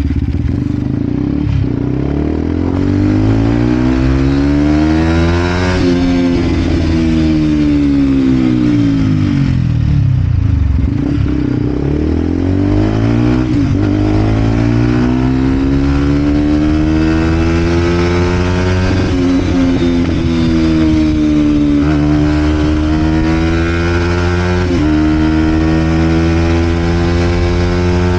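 Vent Derapage 125 four-stroke single-cylinder engine through a full Scalvini exhaust, ridden on the road. The engine note climbs and falls a few times as the bike speeds up and slows, then holds a fairly steady cruise with short dips in pitch at gear changes.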